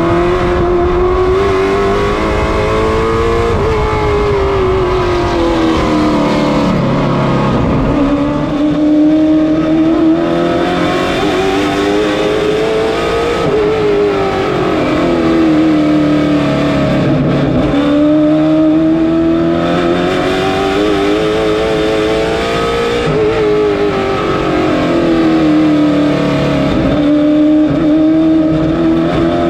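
Late model stock car V8 engine at racing speed, rising in pitch down each straight and dropping as the driver lifts for each corner, repeating lap after lap.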